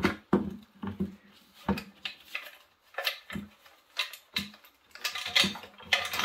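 Metal tools and engine parts clinking and knocking in irregular sharp strikes, coming more thickly near the end, as a seized Honda engine is taken apart by hand.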